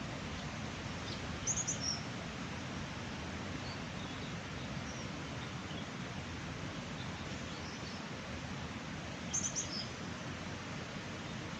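Small bird chirping in quick runs of a few high notes, about a second and a half in and again near the end, with fainter chirps between, over a steady, even rushing noise.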